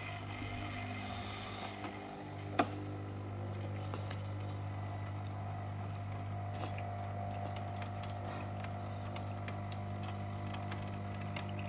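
Double boiler espresso machine's pump running with a steady low hum, growing a little stronger about two seconds in, with one sharp click shortly after and faint ticks.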